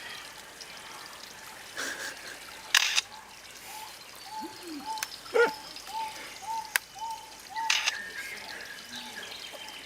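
A bird calling: a run of short, evenly repeated arched notes, about one and a half a second, over a steady hiss, with a few sharp clicks mixed in.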